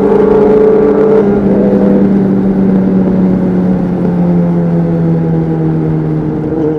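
Honda CBR600RR inline-four engine with a Leo Vince exhaust, heard on board while riding: a loud, sustained engine note that slowly falls in pitch as the revs ease off, then drops away sharply at the end.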